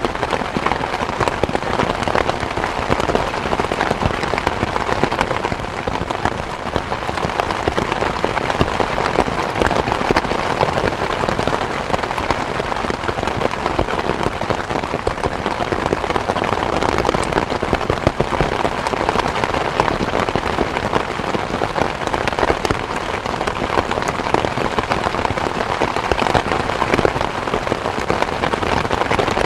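Steady rain, a dense, even patter of many drops.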